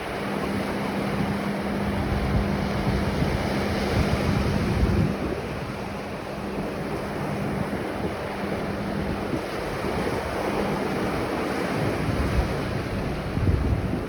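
Ocean surf washing onto a beach in a continuous roar that swells and ebbs, with wind gusting across the microphone. A faint steady low hum runs under it.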